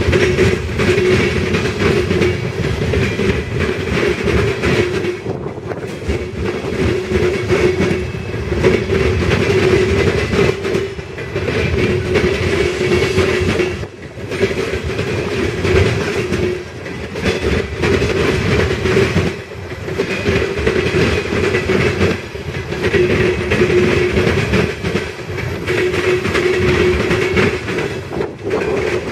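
Loaded coal hopper cars rolling past at speed, their wheels clattering over the rail joints in an irregular run of knocks, under a steady tone that swells and fades every few seconds.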